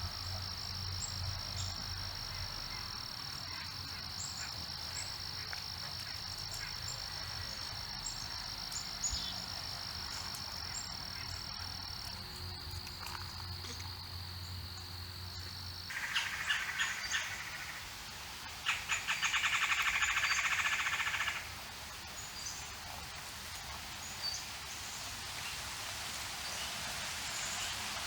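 Small birds chirping over a steady high-pitched drone. Then, after an abrupt change a little past halfway, a loud rapid trill sounds twice in quick succession, the second lasting a couple of seconds, before quieter scattered chirps return.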